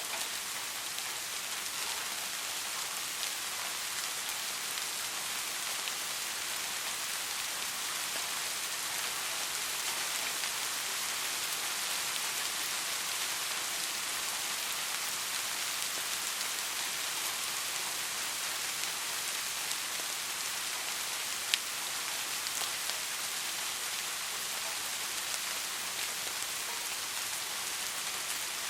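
Soft rain falling steadily, an even hiss of many small drops, with one sharp click about three quarters of the way through.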